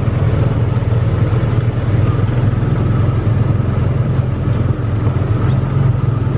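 Tomorrowland Speedway ride car's small gasoline engine running steadily as the car drives along the track.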